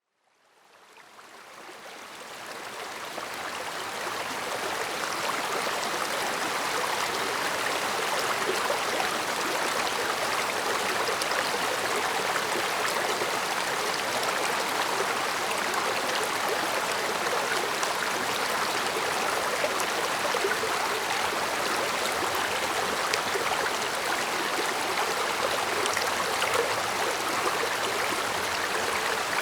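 A shallow stream flowing and babbling over rocks, a steady rush of water that fades in over the first few seconds.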